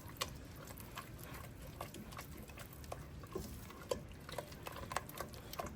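Thick cheese sauce being worked in a saucepan: faint, irregular soft clicks and short gloopy squelches from the spoon and the thickened sauce.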